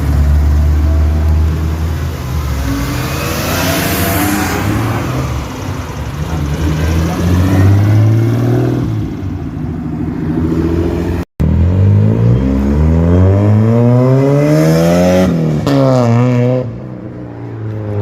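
Car engines accelerating hard, their pitch climbing as they rev up through the gears. In the second half one engine climbs steeply for about three seconds, then drops abruptly and fades away.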